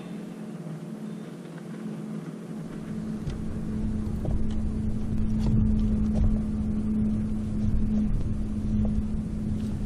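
A steady engine-like hum, with a low rumble that comes in about three seconds in and grows louder.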